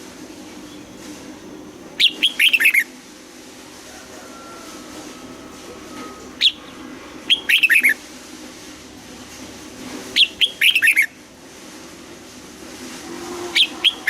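Red-whiskered bulbul singing in four short, loud bursts a few seconds apart, each a quick run of sharply falling whistled notes.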